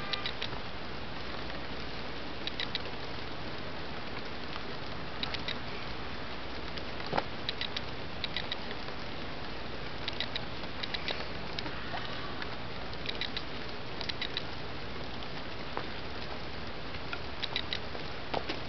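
Steady rain falling, an even hiss, with small clusters of sharp ticks every second or two and one louder click about seven seconds in.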